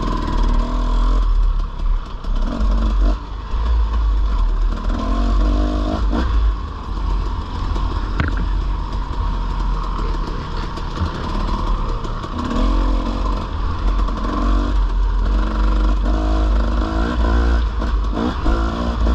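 Dirt bike engine being ridden on a trail, revving up in short spells and dropping back again and again as the throttle is worked.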